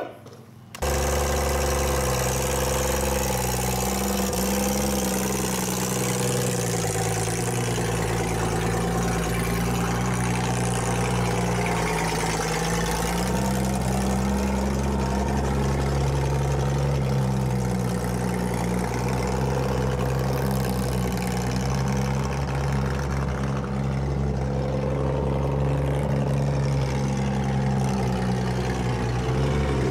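1967 Ford Mustang's freshly installed engine running steadily just after its first start, its pitch shifting slightly a few times; it starts abruptly about a second in.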